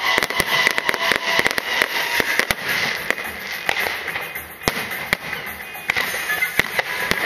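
Aerial fireworks going off: a dense stream of crackling with many sharp bangs. The crackling thins out for a few seconds about halfway through, then picks up again.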